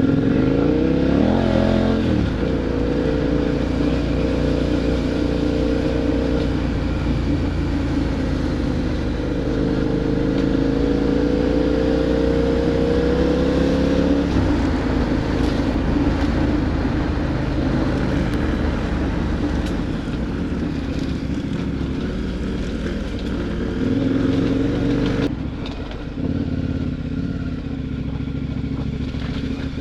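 KTM adventure motorcycle's V-twin engine running under way, its pitch climbing as it accelerates in the first couple of seconds and again for several seconds mid-way before dropping at a gear change.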